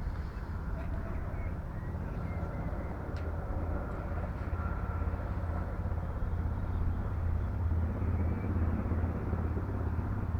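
Steady low engine rumble with a slight slow pulsing in the bass, carrying on without a break.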